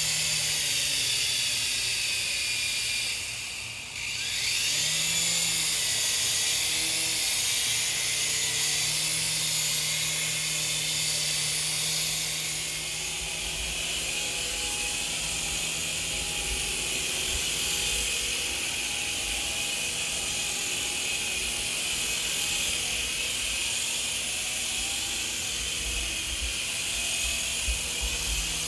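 Electric motors and rotor blades of a Helizone FireBird 3-channel micro RC helicopter running with a high, steady whine. About three and a half seconds in, the whine sags briefly as the throttle is eased, then rises again as the motors spool back up.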